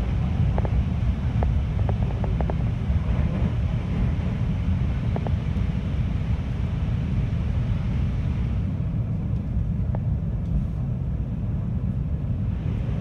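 Running noise of a 521 series electric multiple unit: a steady low rumble of wheels on rail, with a few light clicks in the first few seconds. The higher hiss fades about eight and a half seconds in, leaving mostly the low rumble.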